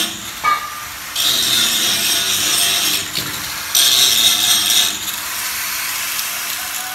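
Electric arc welding of a steel bar onto a dump truck body: two bursts of hissing, about two seconds and then about one second long.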